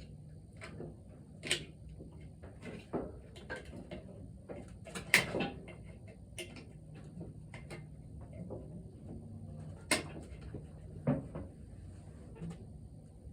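Scattered metal clinks and knocks of hand tools working the valve springs and keepers on an engine's cylinder head, the loudest about five seconds in and another near ten seconds, over a steady low hum.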